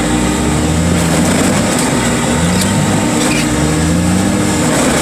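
Heavy machinery engine running steadily under load, its pitch rising and falling back in a slow repeating swell about every couple of seconds as the hydraulics work.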